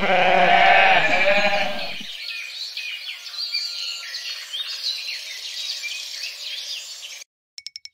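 Sheep bleating: one long, wavering bleat lasting about two seconds.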